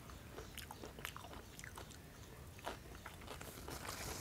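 Faint, close-miked chewing of a çiğ köfte wrap roll: irregular small wet clicks and smacks from the mouth. A soft paper-napkin rustle comes in near the end.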